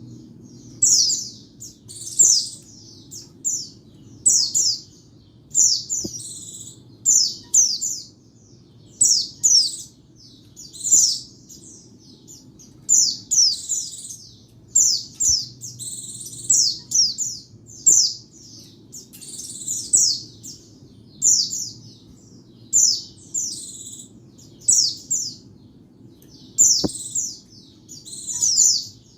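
White-eye (pleci) singing: a long run of short, high, quick chirping phrases, about one a second.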